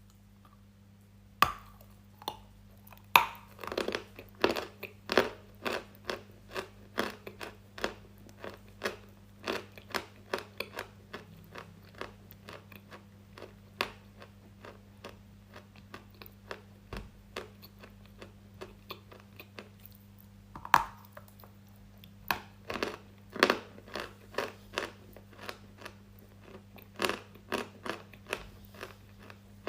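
Close-miked crunchy chewing: a person biting into and chewing something brittle, with sharp separate crunches about once or twice a second and a few short pauses, over a faint steady low hum.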